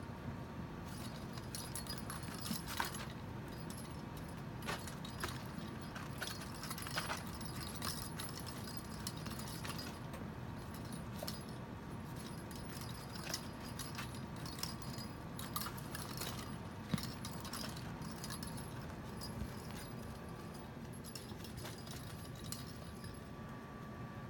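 Light clicks and jingly rattles at irregular intervals, as a kitten bats at and plays with a small object, over a faint steady hum.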